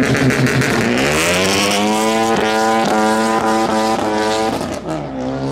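Front-wheel-drive Ford Focus hatchback's engine revving up and held at high revs in a burnout, cutting in and out two or three times a second as if bouncing off the rev limiter. The revs drop near the end and climb again.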